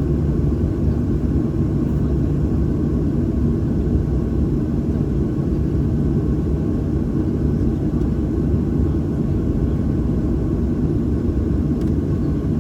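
Steady low rumble and hum of a Boeing 737-800 heard from inside the passenger cabin, with several steady low tones and no change in level.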